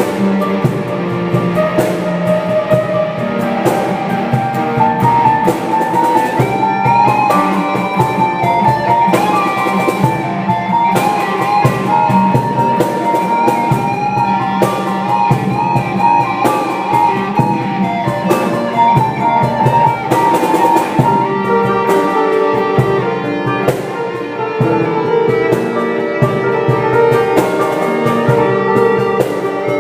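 Instrumental rock passage: a band playing guitar over a drum kit, with held melody notes and steady drum hits throughout.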